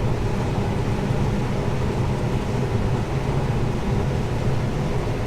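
Combine harvester running in the field, a steady low rumbling drone with a faint constant hum over it.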